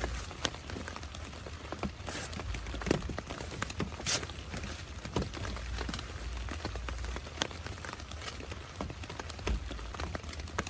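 Steady rain, with irregular heavier drops tapping sharply on a surface close to the microphone.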